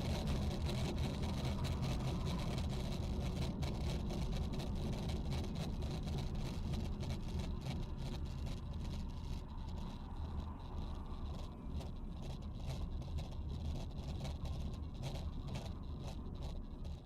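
Steady engine and road noise of a car driving, heard from inside the cabin through a dashcam microphone.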